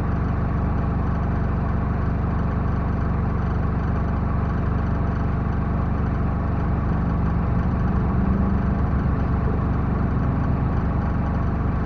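Backhoe loader's diesel engine running steadily, picking up a little in level about two-thirds of the way through.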